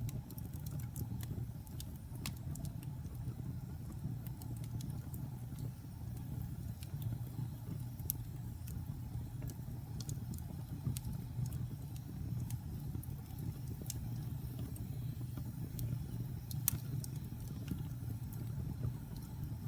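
Wood-burning fire crackling: a steady low rumble of burning logs with scattered sharp crackles and pops, one louder pop late on.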